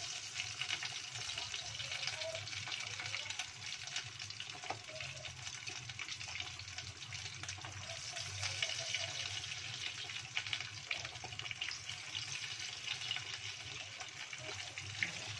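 Flour-coated chicken wings deep-frying in hot oil in a small saucepan: a steady sizzle full of small crackles.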